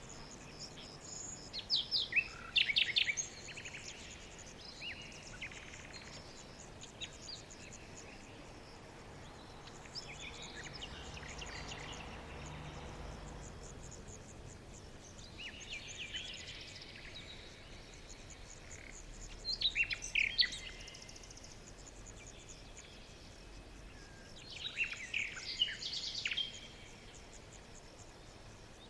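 Forest birds singing: several bursts of rapid, high chirping phrases every few seconds, with a faint steady high insect-like hiss beneath.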